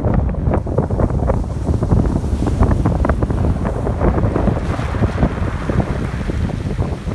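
Strong wind buffeting the microphone over ocean waves washing on the shore. A wave surge swells about two and a half seconds in and fades by about five seconds.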